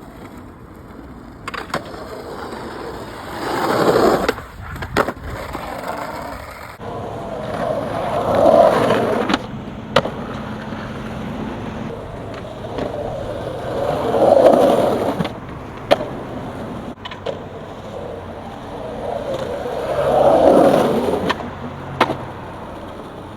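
Skateboard wheels rolling over pavement, swelling loud four times as skaters ride past, with sharp wooden clacks of the board popping and landing after most passes.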